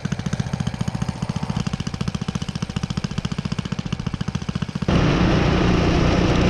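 Small engine idling with a fast, even putter, then running much louder from about five seconds in.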